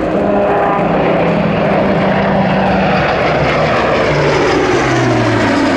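Airbus A400M Atlas's four turboprop engines and propellers on a pass, a loud steady hum that falls in pitch over the last couple of seconds as the aircraft goes by.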